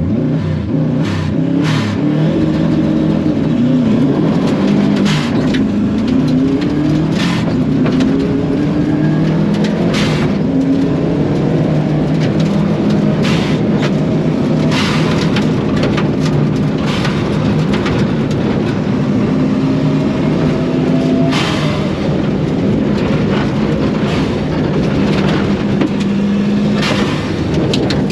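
Turbocharged Subaru EJ25 flat-four in a rally car driven hard through a rallycross lap, heard from the cabin: engine pitch climbs through each gear and drops at every shift. Sharp cracks come every few seconds at irregular intervals.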